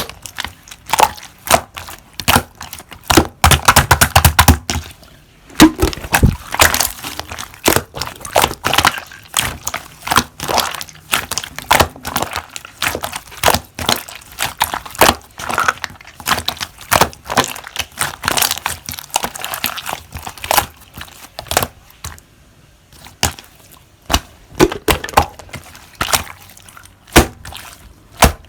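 Slime being squeezed and pressed by hand, making rapid, irregular clicks, pops and crackles, with a dense burst of crackling a few seconds in.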